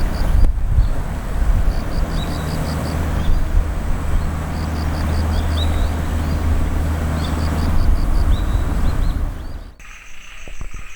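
A steady low rumble, like an idling engine, with a small bird singing over it, repeating the same short phrase about every two seconds: a rising note, then a quick run of high notes. About ten seconds in the scene cuts to a quieter background with a steady high pulsing trill.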